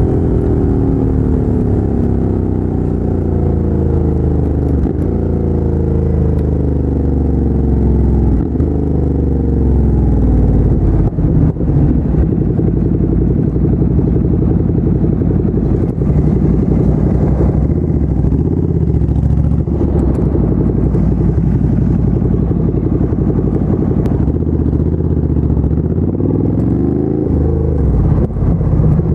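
2017 Ducati Monster 797's air-cooled L-twin running through a LeoVince LV-10 aftermarket exhaust. Over the first ten seconds or so the engine note falls as the bike slows, with a couple of brief breaks. It then holds a steady low note, and the revs rise again near the end.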